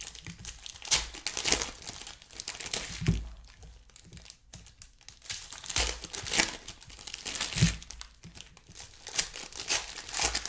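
Trading-card packs and cards being handled, with plastic and foil wrappers crinkling and tearing in irregular rustling bursts. There is a quieter stretch about halfway through.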